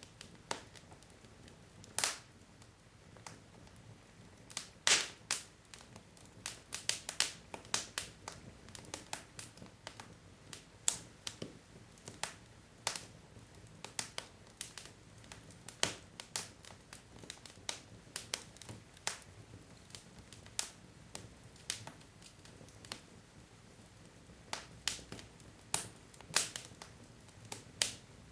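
Wood logs burning in a fireplace: sharp crackles and pops at irregular intervals, some louder than others, over a faint low hiss of the fire.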